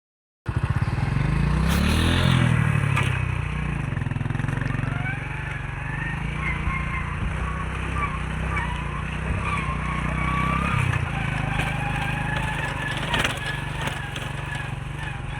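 An engine running, revving up about two seconds in and then running steadily.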